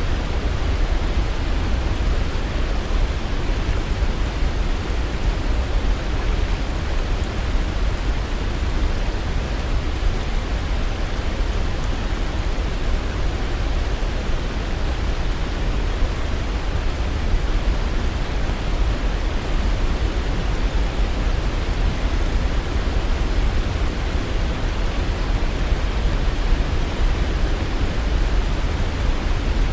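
Waterfall rushing steadily, an even, deep roar of falling water with no change throughout.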